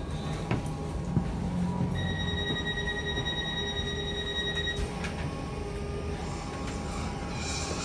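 Electric commuter train standing at a station platform, its equipment humming steadily with a few light clicks. About two seconds in, a steady high warning tone sounds for nearly three seconds: the door-closing alarm. A short hiss follows near the end.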